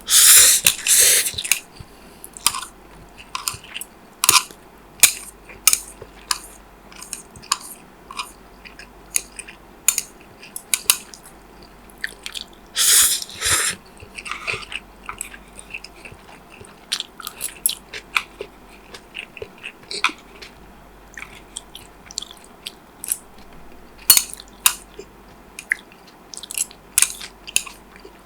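Close-miked eating sounds: chewing and biting with many short wet clicks and occasional crunches, and two longer, louder noisy bursts, one right at the start and one about halfway through.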